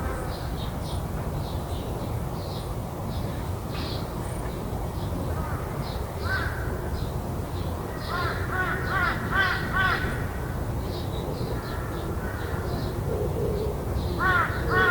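Crows cawing in runs of repeated calls, about eight seconds in and again near the end, over short high chirps of small birds and a steady low background rumble.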